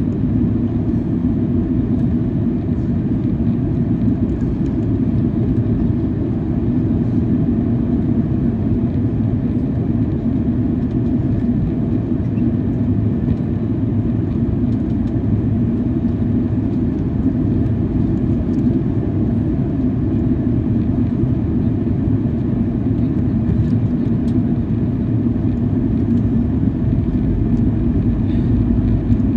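Steady cabin drone of a Boeing 737-800 airliner, the noise of its CFM56 turbofan engines and airflow heard from inside the cabin, with a steady low hum running through it.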